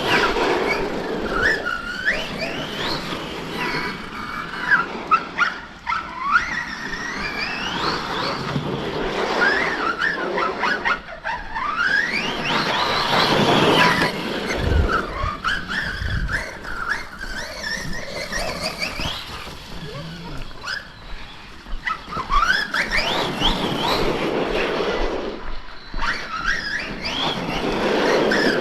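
Electric RC monster truck being driven hard: the brushless motor whines up and down in pitch as the throttle is worked, over the noise of tyres on dirt. There are a couple of low thumps about halfway through.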